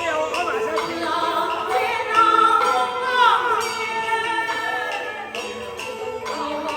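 Beiguan Fulu-style opera singing with the ensemble's traditional accompaniment: long held notes, with a falling slide about three seconds in.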